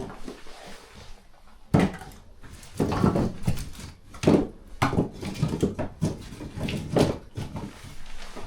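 A series of irregular knocks and scraping sounds, several sharp hits among rougher scrapes, starting a couple of seconds in.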